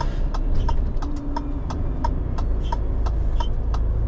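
Lorry turn-signal indicator ticking steadily, about three ticks a second, over the low running of the Renault T480's engine in the cab.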